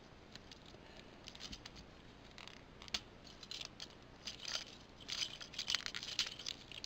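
Plastic parts of a Transformers Rail Racer figure clicking and scraping as an arm is worked out of the train body: one sharp click about three seconds in, then a run of small clicks and scrapes through the second half.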